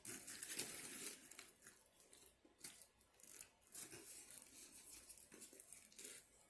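Paper food packaging being handled, rustling and tearing in a run of crinkly bursts.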